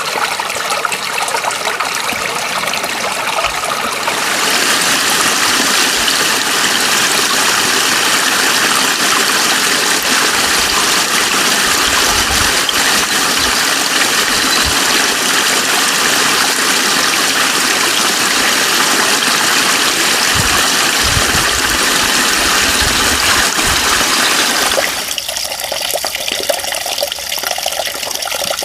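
Running water rushing steadily. It grows fuller and louder about four seconds in, then thins out suddenly near the end.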